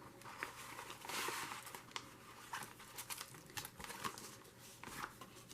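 Faint crinkling and rustling of paper and plastic being handled, with scattered small taps and clicks.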